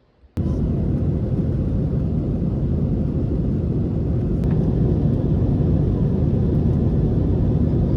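Airliner cabin noise in flight: a loud, steady low rumble that cuts in suddenly about half a second in.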